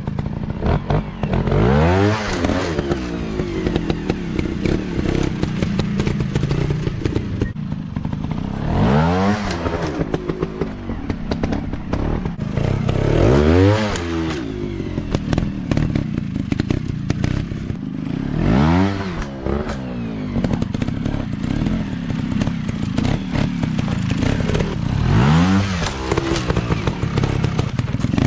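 Dirt bike engines revving repeatedly on a trail ride: about five times the engine pitch rises and falls back, over steady running with clattering and scraping.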